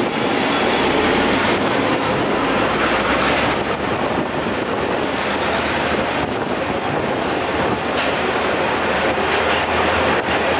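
Taiwan Railway train passing: a loud, steady rush of wheels on the track, with a few clacks over rail joints.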